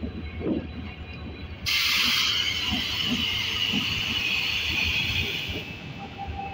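Passenger coaches rolling slowly past over the rails, with a low rumble and scattered wheel knocks. Nearly two seconds in, a loud hiss of escaping air starts suddenly, like an air-brake release, and lasts about four seconds before fading.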